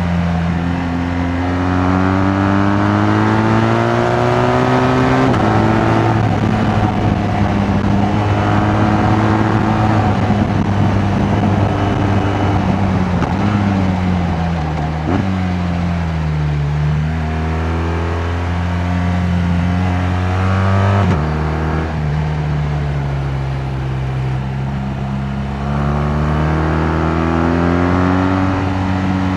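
BMW R 1200 GS Adventure's boxer-twin engine under way: its pitch climbs as it pulls, drops sharply at gear changes about 5, 15 and 21 seconds in, and sinks as it slows before pulling up again.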